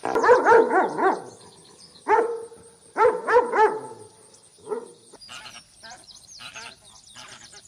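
Dog barking in short runs: several quick barks in the first second, a single bark about two seconds in, another run of three or four barks about three seconds in, and one more just before five seconds. Fainter, higher-pitched calls follow after that.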